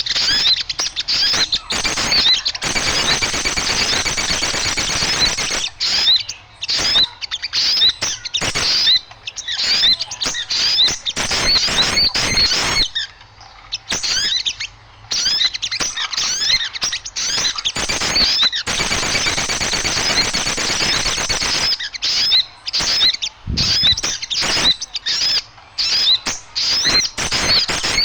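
A flock of small birds chattering noisily: a dense, overlapping stream of high, quick chirps and squeaks with a few short pauses. This is a bird-lure call, played to draw small birds in.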